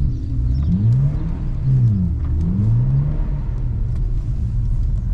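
BMW 128i's straight-six with a muffler delete, revved up and down several times in short bursts while the rear wheels spin with no traction in snow.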